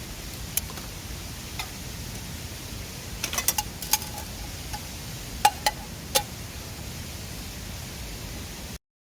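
Steady rush of a mountain river, with a wood campfire crackling over it in sharp, scattered pops, bunched about three to four seconds in and again around five and a half to six seconds. The sound cuts out abruptly just before the end.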